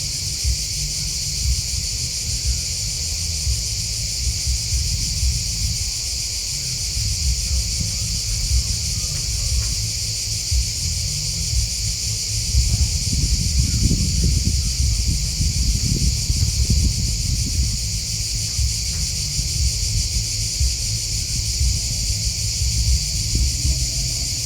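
Steady chorus of chirping insects, high-pitched and unbroken, over a low rumble that grows louder about halfway through and then eases off.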